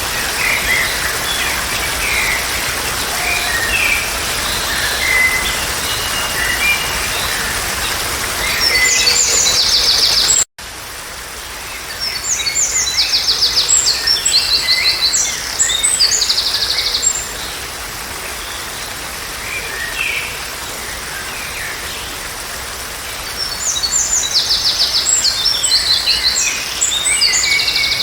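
Songbirds singing in a mix of short chirps and fast, repeated trilled phrases over a steady background hiss. About ten seconds in, the sound cuts out for an instant, then the birdsong carries on.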